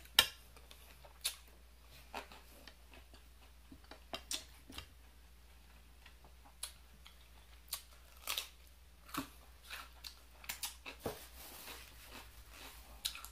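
Close-up chewing of a mouthful of salad: irregular crunches and mouth clicks. A sharp clack right at the start, the loudest sound, as a metal fork is set down.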